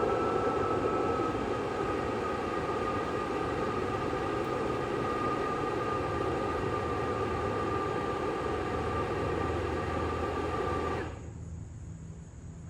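Leaf blower running steadily, pushing air through a clothes dryer vent duct to clear out lint, with a whine that sags slightly in pitch; it cuts off suddenly about eleven seconds in.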